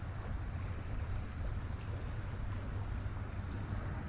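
Insects trilling in one steady, unbroken high-pitched note, with a low rumble underneath.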